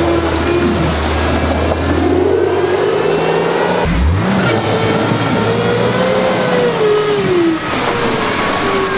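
Subaru Forester's flat-four boxer engine revving up and down repeatedly as the car is driven in a deep mud rut, stuck and struggling for grip.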